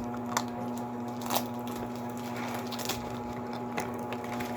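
Light eating sounds: a few short clicks and soft rustles, typical of plastic spoons and food packaging, over a steady low hum.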